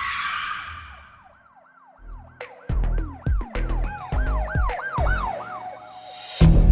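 Music with a wailing siren effect that rises and falls about three times a second, opening with a whoosh. Heavy bass hits come in about two and a half seconds in, and a louder full beat starts near the end.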